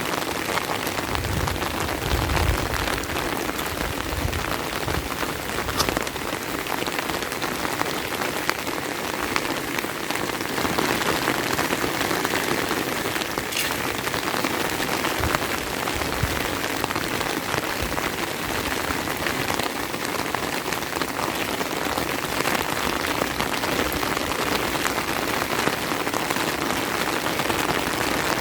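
Steady rain falling, a dense, even hiss, with a few low rumbles in the first few seconds.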